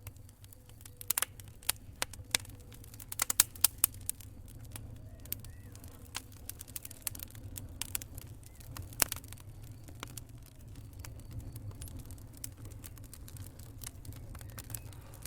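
Campfire crackling: irregular sharp pops and snaps of burning wood over a steady low rumble of the flames, with the loudest pops bunched between one and four seconds in and another about nine seconds in.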